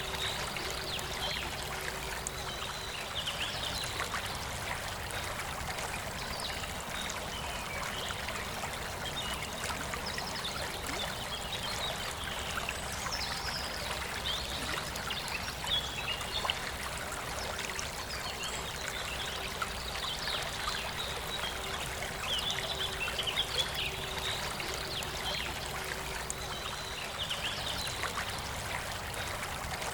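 Forest river flowing steadily, with birds singing short chirping phrases on and off throughout.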